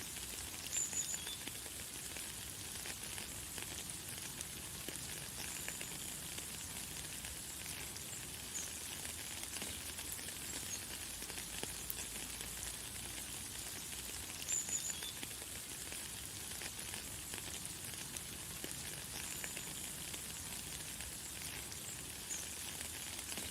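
Light, fine rain pattering steadily, with short high bird chirps every few seconds, the clearest about a second in and again about halfway through.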